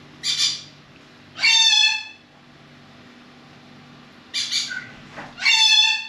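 A bird squawking in two pairs of calls: each time a short rasping call, then about a second later a longer, louder squawk.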